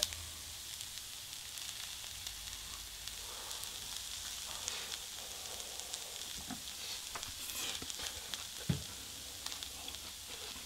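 Tteokbokki and ramen sizzling in a hot cast-iron skillet, a steady fine crackle, with a single short knock about nine seconds in.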